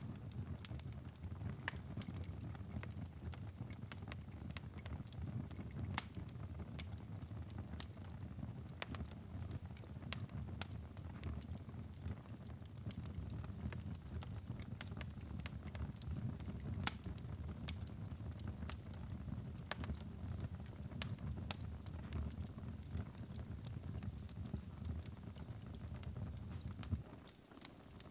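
Fire burning in a fireplace: a steady low rumble of flames with frequent sharp crackles and pops scattered irregularly. The sound dips briefly near the end.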